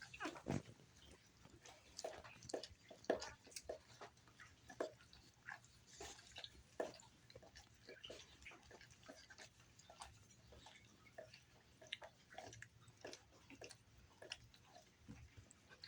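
Three-day-old Catahoula puppies making faint, irregular little squeaks and clicking mouth sounds, with a short falling squeal at the start.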